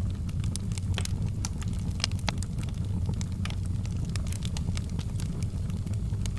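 Wood fire burning with a steady low rumble and frequent sharp crackles and pops, several a second at irregular intervals.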